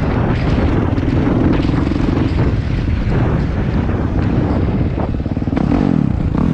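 2019 Kawasaki KX450F's single-cylinder four-stroke engine running loud through a full Pro Circuit exhaust, its revs falling away about five and a half seconds in.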